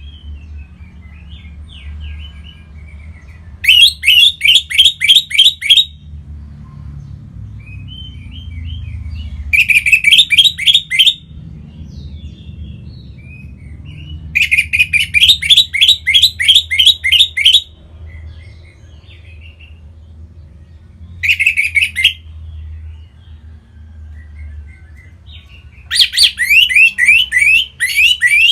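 Orange-headed thrush singing: five loud bursts of fast, repeated whistled notes, each lasting one to three seconds, with quieter scattered twittering between them.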